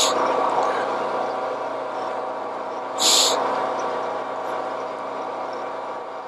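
Milling machine running with its cutter taking a light pass across a poured babbitt bearing, a steady machine tone with cutting noise. There are two short high hisses, one at the start and one about three seconds in.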